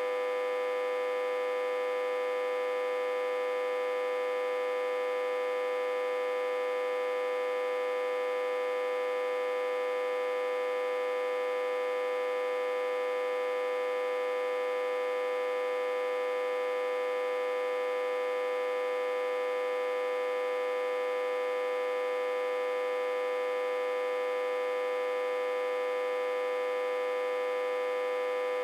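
Autotransformer humming steadily, a strong mid-pitched tone with many overtones above it. It is energised through a step-down transformer connected in reverse, fed at about 60–80 V.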